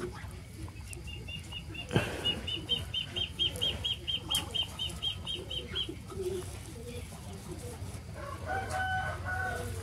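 A bird chirping a rapid run of short high notes, about five a second for some five seconds. Near the end there is a short call of a few held notes, with a soft low rustle underneath throughout.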